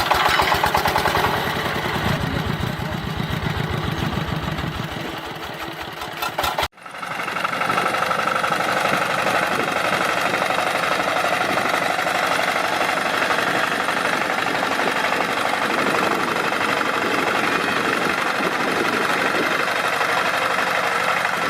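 A DIY mini tractor's small motor running, first with a fast, even pulsing beat; after a sudden break about seven seconds in, it runs on as a steady whirring hum.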